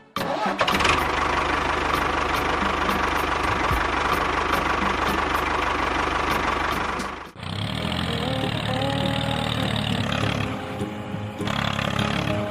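An engine running steadily with a fine, even ticking. It cuts off abruptly about seven seconds in, and a different sound with low pulsing and a few stepping held tones takes over.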